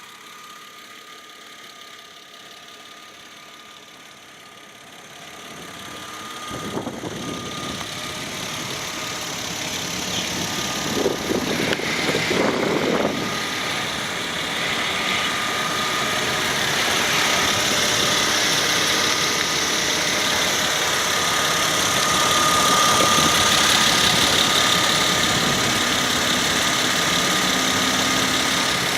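Mercedes-Benz ML 320's naturally aspirated 3.2-litre 18-valve V6 idling steadily, with a thin steady whine above the engine note; it is quiet at first and grows louder from about six seconds in.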